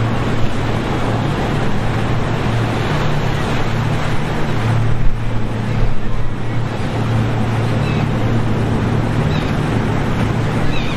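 Boat engines running with a steady low drone over rushing water and waves, with a brief surge about five seconds in.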